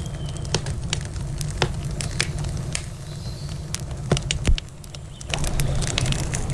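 Wood campfire crackling, with irregular sharp pops over a steady low rumble. About five seconds in, a steady rushing hiss of flowing river water rises beneath the crackles.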